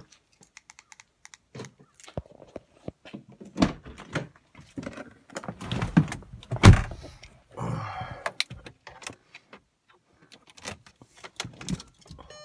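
Clicks, rustling and thunks of someone getting into a car: keys jangling and a car door handled and shut, with the loudest thump a little after halfway. No engine is running yet.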